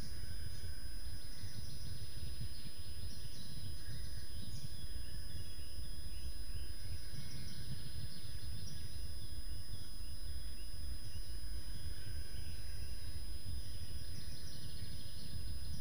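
Several birds chirping and singing over a steady low rumble of outdoor background noise, with faint constant electronic tones from the webcam's audio.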